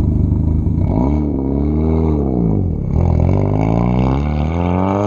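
Volkswagen Jetta Mk4's turbocharged 1.8T four-cylinder engine under way: its revs swell up and fall back, then climb steadily again.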